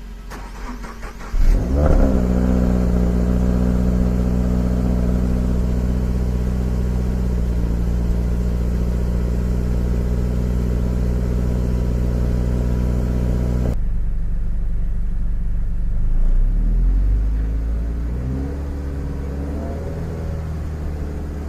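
Stock exhaust of a 2018 Subaru BRZ's 2.0-litre flat-four boxer engine on a cold start: the starter cranks for about a second and a half, the engine catches with a quick flare in revs, then settles into a steady fast cold idle. About 14 s in the sound drops abruptly to a quieter, lower engine note that rises and falls slowly in pitch.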